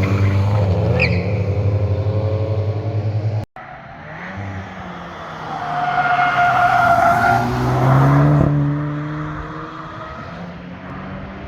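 Cars driven hard past at speed: one engine's pass, then an abrupt cut about three and a half seconds in. A second car follows with tyres squealing through a corner around the middle; its engine is loudest near eight seconds and then fades away.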